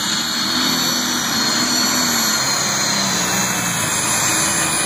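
Engine of a competition pulling vehicle running hard under load during a pull, a loud steady racket with a slightly wavering pitch.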